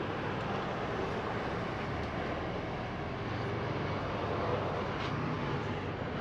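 Steady engine and road noise inside a semi-truck's cab while driving.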